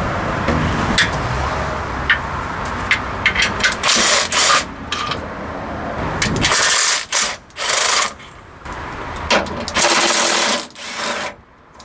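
A power wrench runs in short bursts of about half a second, five in all, spinning out bolts. Metallic clicks of tools and sockets come in between the bursts.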